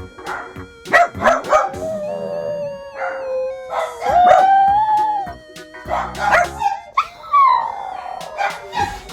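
Dog howling in long drawn-out notes broken by short barks. One long howl holds steady, then rises in pitch about four seconds in; another slides downward about seven seconds in.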